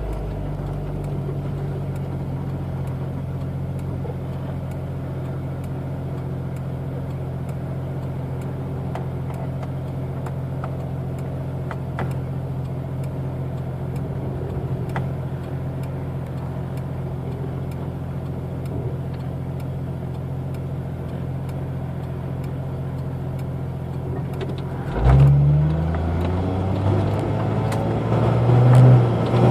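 1992 Jeep Cherokee's 4.0-litre straight-six running through a 2.5-inch exhaust with a Thrush Turbo muffler, idling steadily with a low, even exhaust note. Near the end the engine speeds up and gets louder, eases back, then rises again.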